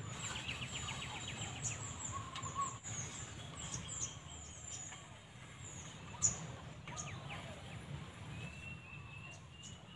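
Small wild birds chirping and calling: many short high-pitched chirps, a rapid trill in the first second, one loud sharp chirp about six seconds in, and a short whistled phrase near the end.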